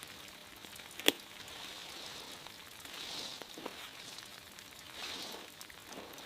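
Rain falling steadily, with one sharp click about a second in and a few fainter ticks from drops.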